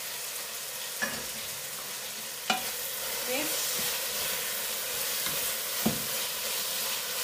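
Onion, tomato and green pepper sizzling as they fry in a stainless steel pot, stirred with a wooden spatula that knocks sharply against the pot three times.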